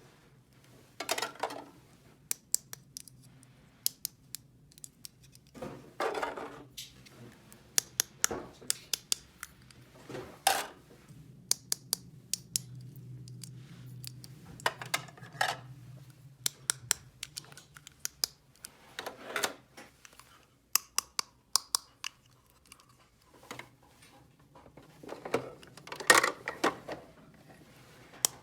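Small plastic toy pieces and packaging being handled: many sharp clicks and taps, with a few short rustling scrapes.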